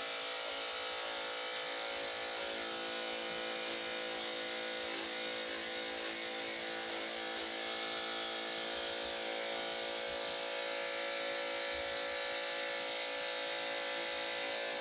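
Electric dog grooming clippers with a #7 blade running steadily, a constant even-pitched hum, as they shave the fur on a dog's front leg.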